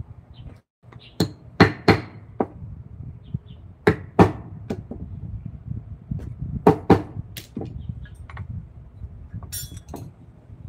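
Sharp wooden knocks of a carver's mallet striking a chisel into wood, about ten irregular strikes, several in quick pairs. There is a short scraping rasp near the end.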